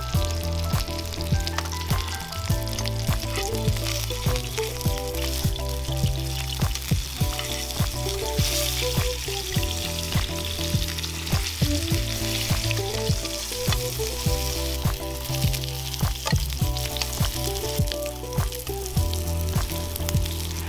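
Meat-wrapped rice balls sizzling in oil in a frying pan over medium-high heat, with small crackles throughout. Background music with a melody and bass plays under the sizzle.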